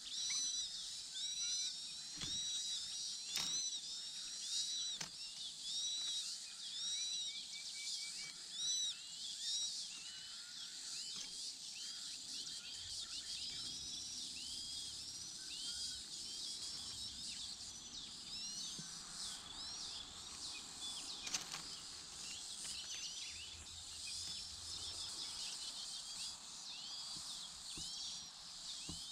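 Birds chirping: a steady run of many short, high, arching chirps repeating rapidly, with a few sharp knocks in the first five seconds and one more about two-thirds of the way through.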